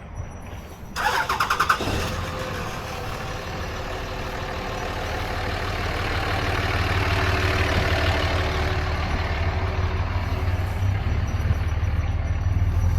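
A vehicle engine starting: a brief burst of rapid clicking cranking about a second in, then the engine catching and running with a steady low hum.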